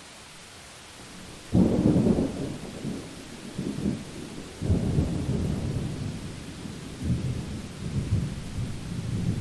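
Steady rain hiss, then about a second and a half in a sudden clap of thunder that rolls on, with a second surge of rumbling about five seconds in and further low swells after it.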